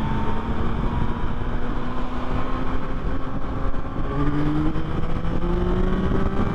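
2024 Yamaha MT-09's inline three-cylinder engine running at a cruise under way, its note rising slightly, over a heavy rumble of wind on the microphone. About four seconds in the engine note changes to a new pitch.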